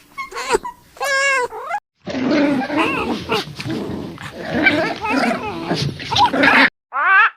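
Animal calls: two pitched, wavering calls, then a dense stretch of many overlapping calls, and a short rising call near the end.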